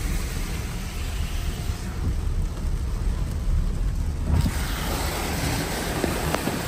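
Heavy hurricane rain and wind heard from a car driving along a flooded street, a steady hiss over a deep, constant rumble.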